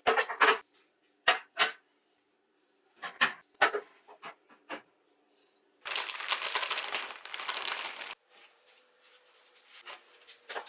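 Kitchen items being handled and set down: a series of short knocks and clatters, then about two seconds of steady rushing noise a little past halfway.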